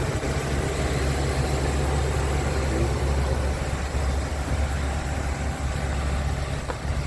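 Ford E-450 box truck's engine idling steadily, a constant low hum.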